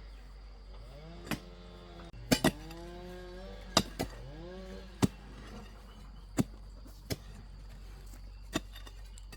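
Hand digging: a hoe or shovel striking into the ground about once a second. Cattle lowing several times alongside, each call rising and then holding its pitch.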